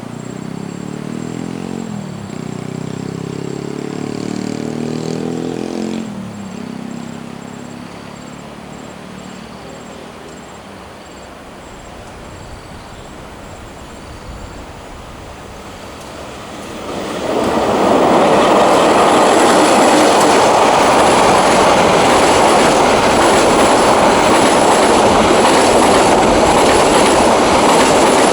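Railway train: a diesel locomotive's pitched engine drone rising and falling in the first few seconds, then from about two-thirds of the way through a loud, steady rush of the train running past close by.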